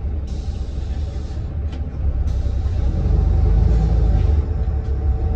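City bus running, heard from inside the cabin: a steady low engine and road rumble with a faint whine, growing louder about halfway through.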